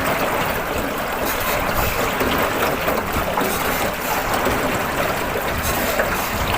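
Steady rushing water noise from a small river boat on the move.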